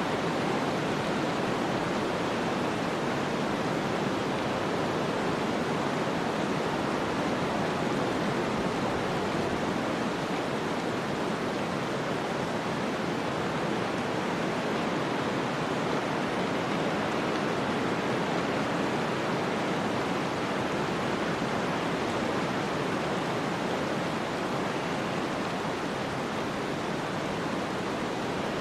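Snowstorm ambience: a steady, even rushing noise with no gusts, crackles or separate events.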